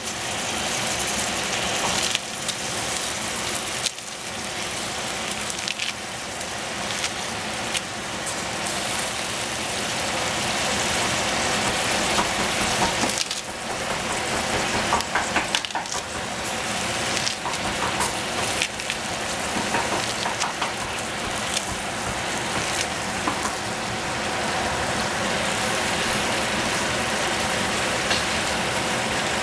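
Food sizzling and crackling as it fries in a stainless steel pot on a gas burner, with crisp tearing and crunching as cabbage leaves are torn by hand and dropped in.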